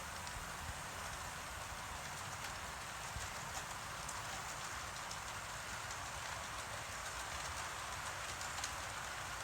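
Model train rolling along the track: a steady hiss with light, scattered clicks from the wheels on the rails.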